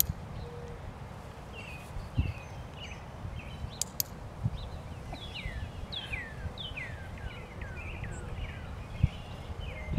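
Wild birds singing: series of quick chirps that fall in pitch, most dense in the second half, over steady low background noise. A pair of sharp clicks sounds about four seconds in.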